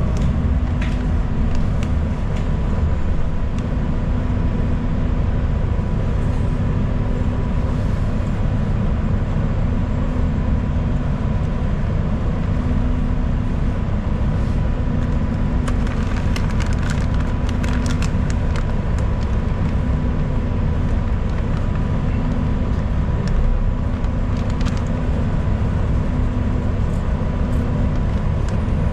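Steady low rumble of a city transit bus's engine and road noise heard from inside the cabin, with a faint steady whine. A flurry of clicks comes about two-thirds of the way through.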